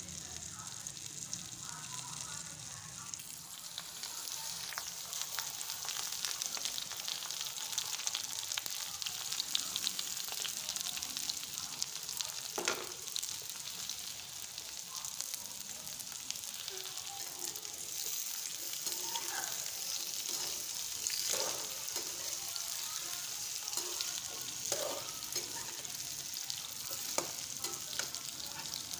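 Oil sizzling and crackling steadily as small whole brinjals fry on a tawa, with a few short scrapes and clinks of a metal spoon stirring in a pan in the second half.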